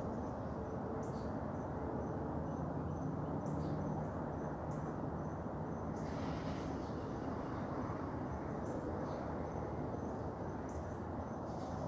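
An insect, cricket-like, chirping in short high-pitched pulses at an even pace, over a steady low background hum; a brief brighter rustle or call cuts in about halfway through.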